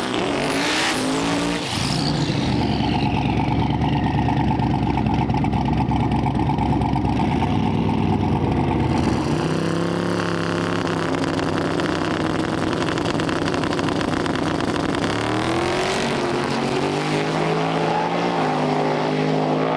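Turbocharged drag race car engines at the strip. A high squeal rises and falls in the first couple of seconds, then the engines are held at high, steady revs. About nine seconds in they drop to a lower steady pitch, and they rev up again in steps near the end.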